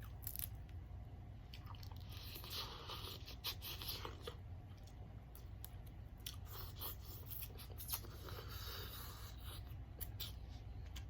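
Close-up chewing and biting of a spicy seafood boil: scattered crunches and wet mouth clicks, busiest about two to four seconds in and again near eight to nine seconds, over a low steady hum.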